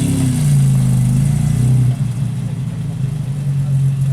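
A car engine running, its pitch wavering for about the first two seconds, then settling to a steady idle.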